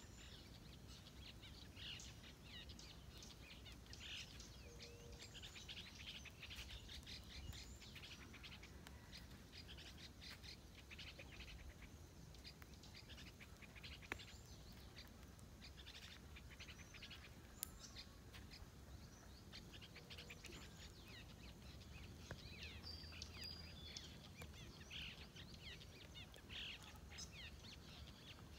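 Faint chorus of many small birds chirping, with short high notes coming thick and fast over a low background rumble. Two sharp clicks sound near the middle.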